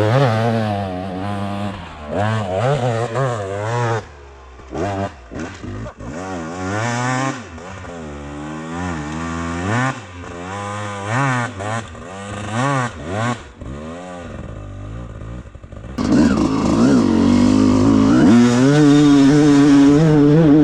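Dirt bike engine revving, its pitch rising and falling over and over as the throttle is opened and shut. Near the end it gets louder and holds a steadier high pitch.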